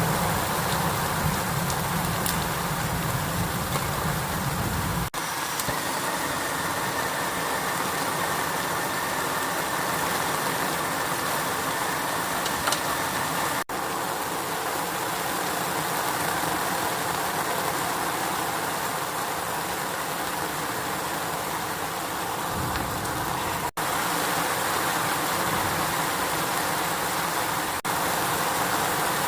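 Heavy rain falling steadily in a storm, a loud even hiss, with a low hum underneath for the first few seconds and again near the end.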